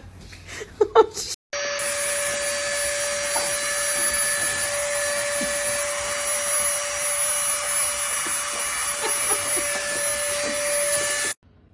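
A small electric motor appliance running steadily, with a rushing-air noise and a constant mid-pitched whine. It starts abruptly about a second and a half in and cuts off suddenly near the end.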